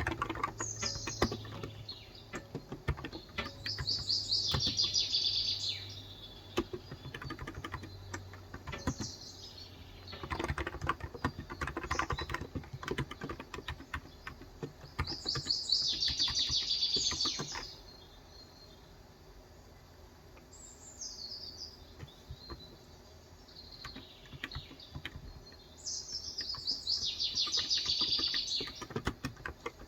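Typing on a COX Endeavor electro-capacitive 35 g tenkeyless keyboard, keystrokes coming in bursts with pauses, thinning out in the second half. A songbird sings repeated trilled phrases over it, several times.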